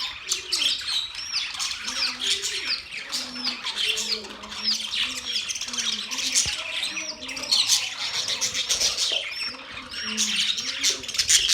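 A group of budgerigars chattering, with many short high chirps and squawks overlapping without a break.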